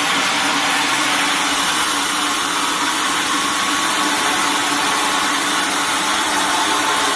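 Sawmill machinery running steadily: a loud, even mechanical noise with a faint steady drone under it.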